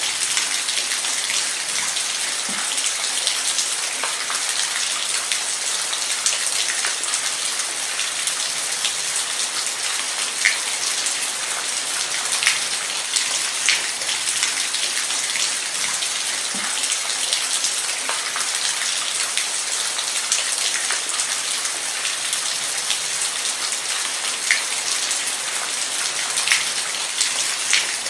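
Steady rain falling, a dense even hiss with single drops ticking sharply here and there.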